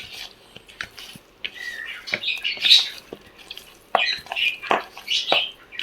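Raw chicken pieces being mixed with a wet vinegar-and-chilli masala in a bowl: irregular squelching with small clicks and taps against the bowl.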